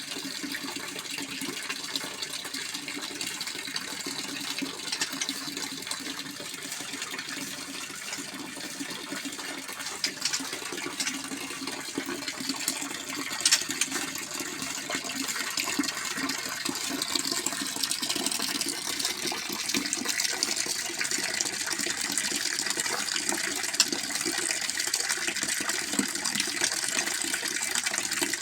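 Steady rushing of running water, growing somewhat louder in the second half, with a few faint clicks.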